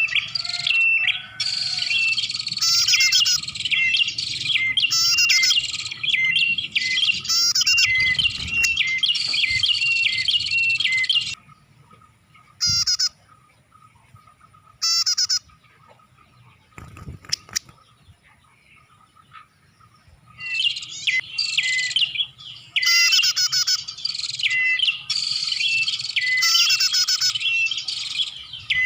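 Prenjak (prinia) lure calls: rapid, repeated high chirping notes. They pause for several seconds in the middle, apart from two short bursts, then start again.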